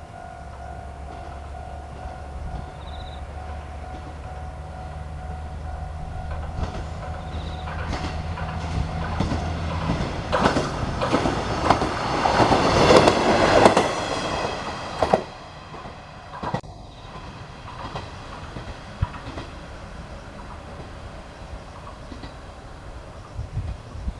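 TH2100-series diesel railcar passing by. Its engine hums steadily as it approaches. The sound builds to a loud pass with wheels clattering over the rail joints about 12 to 14 seconds in, then drops away quickly as it recedes.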